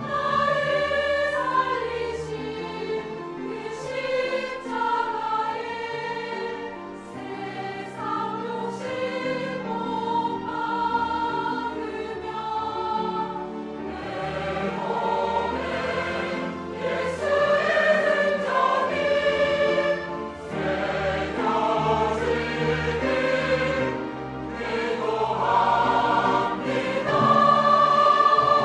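Church choir singing a hymn in parts over an instrumental accompaniment, the voices holding long notes that change pitch every second or so and swelling louder near the end.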